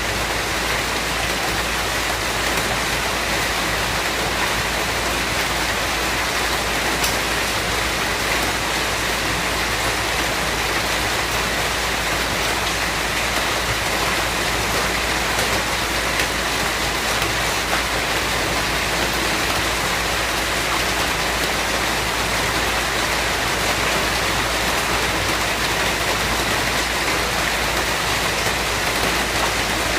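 Steady rainfall, with a few faint drops ticking now and then.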